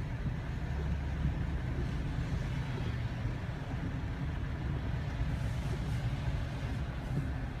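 Steady low rumble of a vehicle on the move, heard from inside the cabin: engine and road noise.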